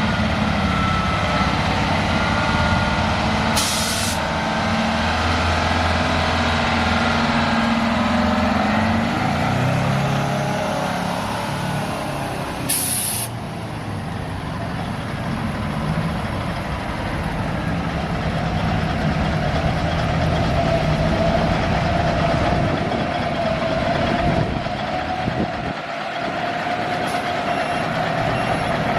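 A truck's engine running, with two short air brake hisses, one a few seconds in and one about halfway. A reversing beeper starts near the end.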